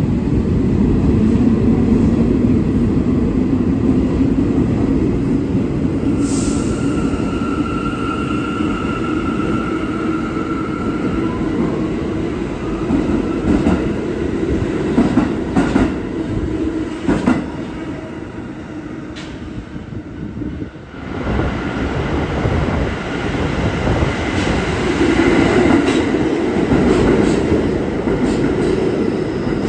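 New York City subway train running through the station, a loud steady rumble with a high whine for several seconds early on and a run of sharp clicks midway. The level dips briefly about two-thirds of the way through, then the rumble returns.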